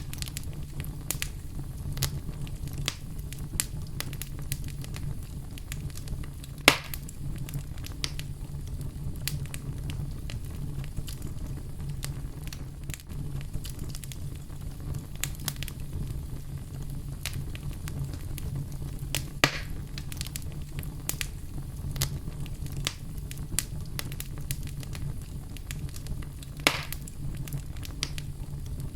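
Wood fire burning in a fireplace, a steady low rumble of flames with frequent small crackles and three louder pops, about a quarter, two-thirds and nine-tenths of the way through.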